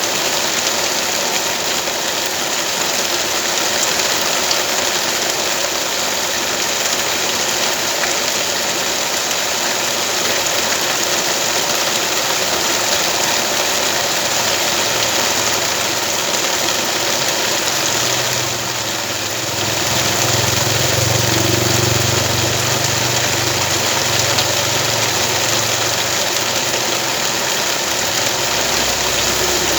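A vehicle engine running steadily under a continuous hiss that fits rain. A deeper engine hum comes in about halfway through and fades near the end.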